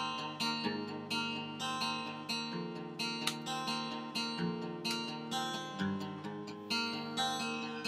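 Acoustic guitar strummed in a steady rhythm, about two strokes a second, with no singing: an instrumental break in a song.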